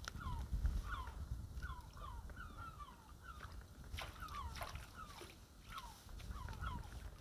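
Birds calling in a steady run of short, falling chirps, over a low rumble. There are two sharp knocks about four seconds in.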